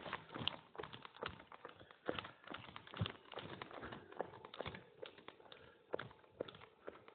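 Footsteps of a hiker walking down a rough mountain footpath: uneven crunching and scuffing steps, about one or two a second.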